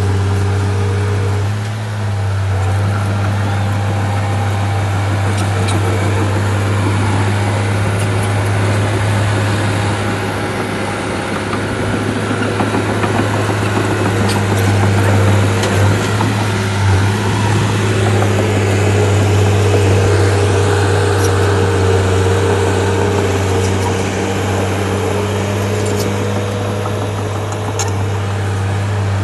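Shantui bulldozer's diesel engine running steadily under load, a deep continuous hum that swells slightly about halfway through, with a few light clanks.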